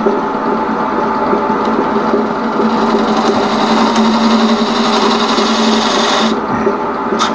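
Union Jubilee wood lathe running with a steady motor hum while a skew chisel scrapes into the spinning wood, cutting a dovetail recess for a chuck's jaws. The rough scraping eases briefly about six seconds in.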